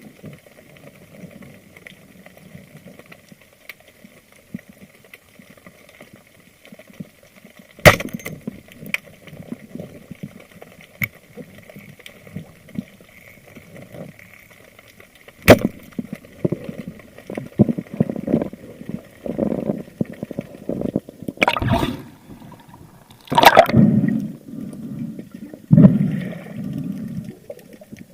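Water sounds heard from a spearfishing diver's camera: a muffled wash broken by a couple of sharp clicks, then gurgling and splashing that grows louder in the last third, with two loud rushes of water.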